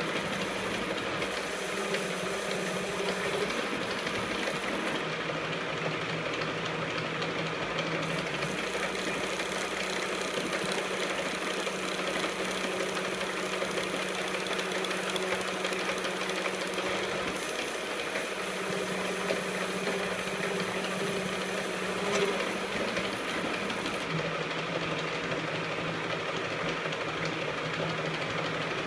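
KART E1N lathe running steadily, a constant machine hum with one low steady tone and a brief louder moment a little after the middle.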